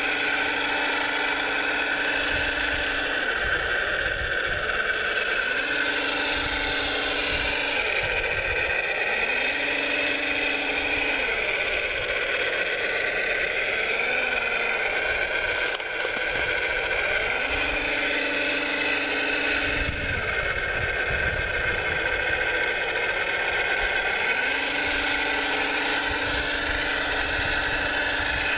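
Radio-controlled scale construction machines running: a steady high electric whine, with a lower motor tone that cuts in and out every few seconds.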